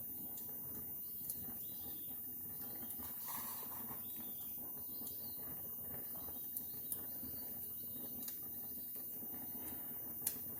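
Faint steady background with a few sharp crackles from a wood fire burning in a fireplace.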